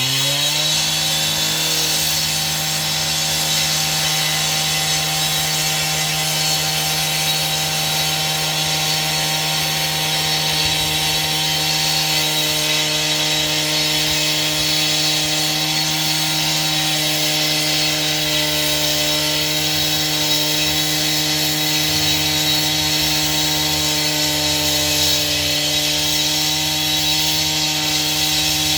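Engine-driven power saw held at a high, steady speed through one long continuous cut, with a rasping cutting noise over the engine tone. It finishes revving up right at the start.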